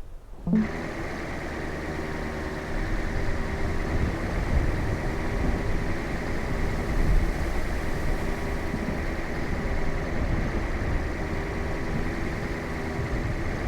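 A vehicle engine running steadily, starting abruptly about half a second in.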